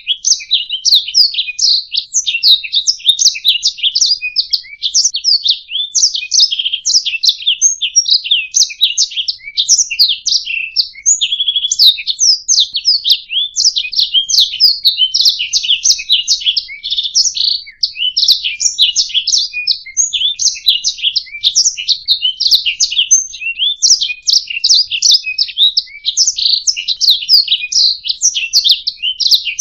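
Domestic canary singing a continuous, fast, high-pitched song of rapid chirps and trills, without a pause.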